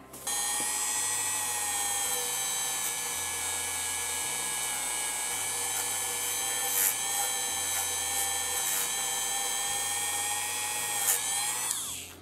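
Dremel rotary tool spinning a felt buffing wheel at speed, a steady high whine. Near the end it is switched off and winds down.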